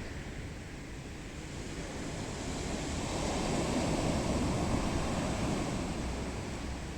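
Sea waves breaking on the beach: a steady wash of surf that swells to a louder crash about halfway through and then eases off, with some wind rumbling on the microphone.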